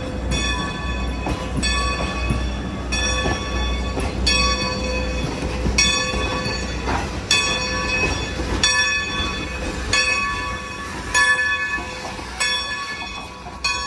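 Steam locomotive's bell ringing steadily, one stroke about every second and a half, each stroke ringing on before the next, over a low rumble.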